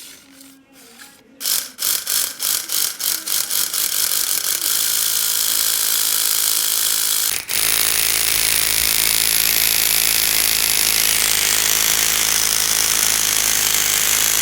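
LEGO model engine with gearbox and throttle running: separate plastic clacks start about a second and a half in and quicken into a continuous mechanical rattle within a few seconds. It cuts out for an instant about halfway, then runs on steady and a little louder.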